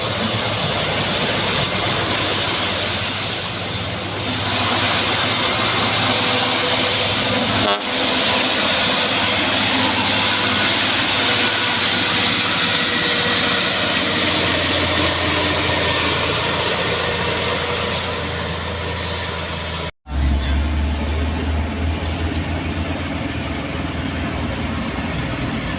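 Truck engine running with steady road and traffic noise. It breaks off abruptly about 20 seconds in, and after that a deep engine rumble is louder.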